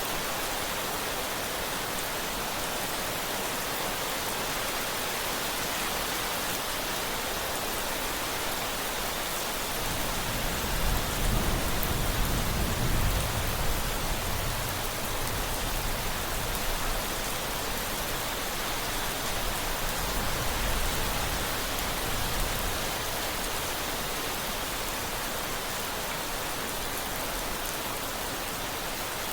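Steady rain hissing, with a deep rumble of thunder rolling in about a third of the way through for several seconds and a fainter rumble a little later.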